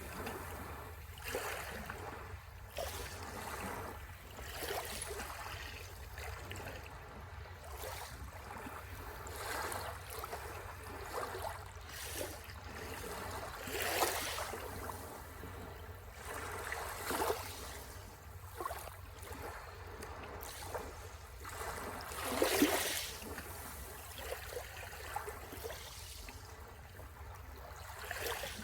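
Small sea waves breaking and washing up the shore, a surge every second or two, with a louder wave about three-quarters of the way through.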